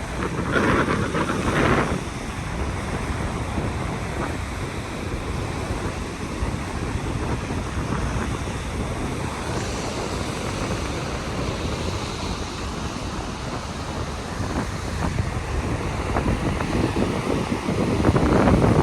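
Wind buffeting the microphone over the steady wash of ocean surf, with louder gusts about a second in and again near the end.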